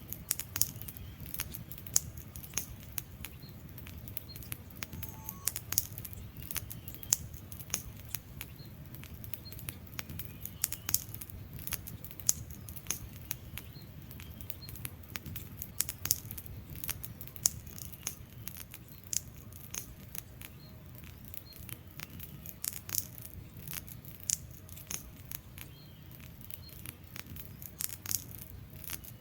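Wood fire burning in a fireplace, with irregular sharp crackles and pops from the logs over a low steady rumble of the flames.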